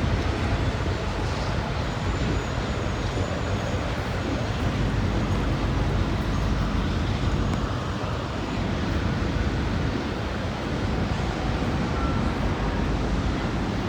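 Freight train cars rolling past, a steady rumble and rail noise with no breaks.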